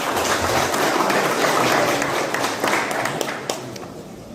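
Crowd applauding for an award winner, many hands clapping at once, dying away near the end.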